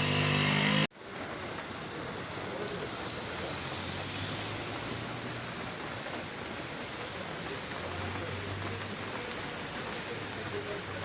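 Steady rain falling, an even hiss of drops on the ground. About the first second holds a motor vehicle's engine running, and it cuts off abruptly.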